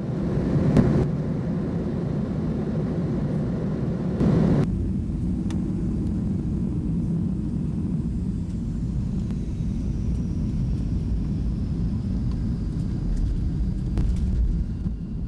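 A steady low rumble with no speech in it, louder for a moment near the start and again about four seconds in, starting and stopping abruptly.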